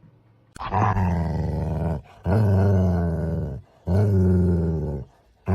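A dog vocalizing in long, low-pitched drawn-out calls: three of a bit over a second each with short pauses between, then a shorter one starting near the end.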